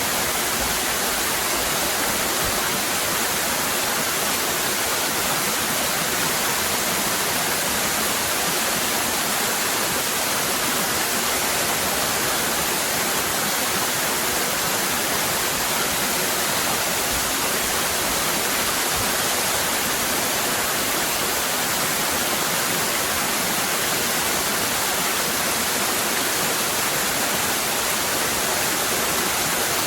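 Waterfall cascading: a steady, unchanging rush of falling water.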